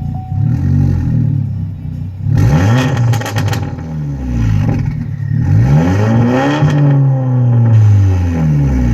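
Chevrolet HHR SS's turbocharged 2.0-litre four-cylinder revved several times, rising and falling, with a longer rev near the end, through a 3-inch ZZP catless downpipe with resonator and muffler deleted: a loud, unsilenced exhaust that sounds horrible.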